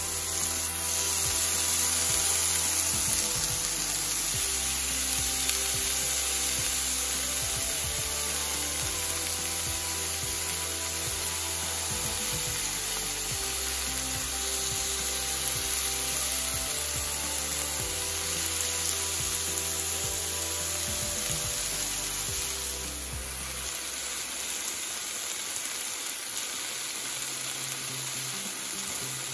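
Chicken tikka skewers sizzling in oil on a hot ridged cast-iron grill pan, a steady frying hiss, under background music whose bass drops out about three-quarters of the way through.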